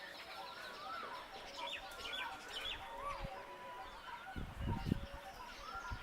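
Several birds calling at once: repeated whistled notes that swoop up and down, held steady notes and quick chirps. A brief low rumble comes about four and a half seconds in.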